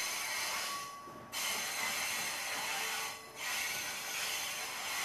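Running noise of a moving passenger train heard from inside the carriage: a rushing hiss of wheels on rail and air past the open window, swelling loud three times for a second or two each.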